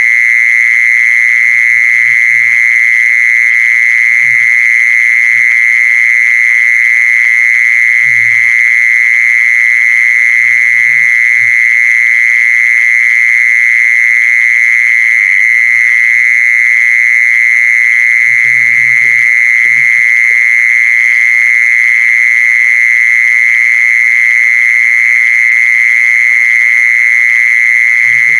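Mole cricket calling: one continuous, unbroken high trill at a steady level. This is the lure call played to draw mole crickets in.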